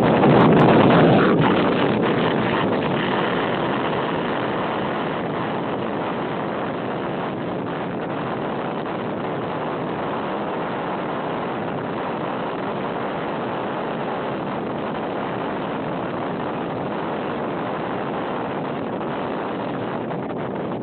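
Strong, typhoon-like wind buffeting a mobile phone's microphone as a dense, steady rushing noise, loudest in the first second or two.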